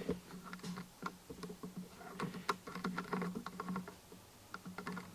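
Irregular light clicks and rustles of things being handled, over a faint steady hum.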